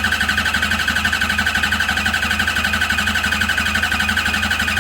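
Four-cylinder motorcycle engine cranked over on its starter motor without starting, with an even fast pulsing from the cylinders' compression strokes. This is a relative compression test, where each cylinder is checked by how much starter voltage it drops.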